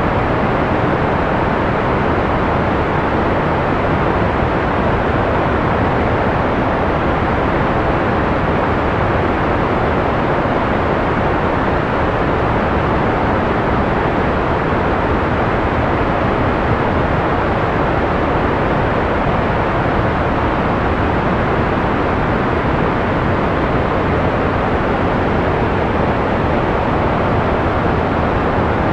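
Continuous analog-style white noise: a steady, unchanging hiss with a dull, soft tone, most of it in the lows and mids with little treble.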